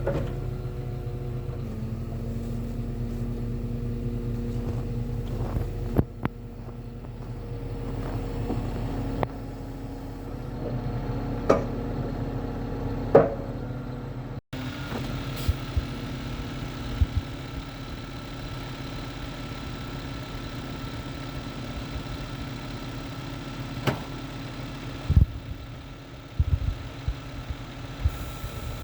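Scania 480 truck's diesel engine running steadily at idle, with scattered clicks and knocks over it. The sound cuts off abruptly about halfway through, then the steady running resumes.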